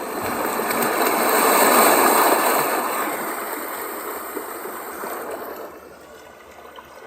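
Magicteam white noise machine playing one of its recorded water sounds through its speaker: a rushing noise like moving water that swells to a peak about two seconds in, then slowly fades and drops lower near the end.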